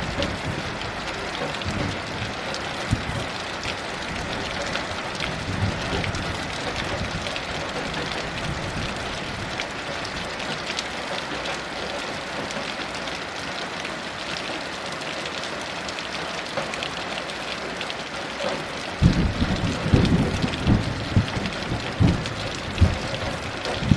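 Heavy rain falling steadily, with distant thunder rolling in low, irregular rumbles that swell up about three quarters of the way through.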